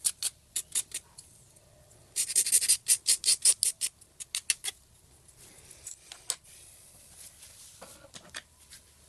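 Hand file scraping over hardened epoxy on a plastic cup-holder part, in quick strokes of about five a second. There are two runs of strokes, the second and stronger one starting about two seconds in, then a few scattered lighter strokes.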